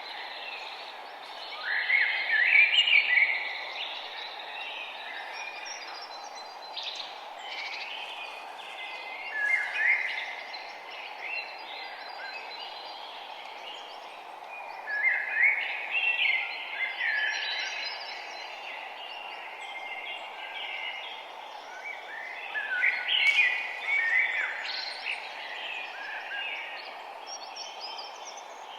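Birds chirping and singing in phrases that come every few seconds, with the loudest bursts about 2, 10, 16 and 24 seconds in, over a steady background rush.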